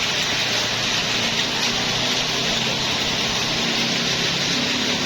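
Very heavy rain falling, a dense steady hiss, with a motorcycle engine running faintly underneath.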